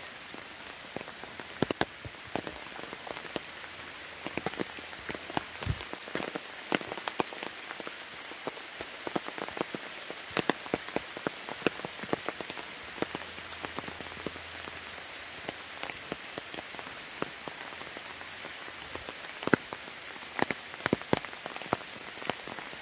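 Steady rain falling, with many sharp, close drops ticking at irregular intervals over a continuous hiss.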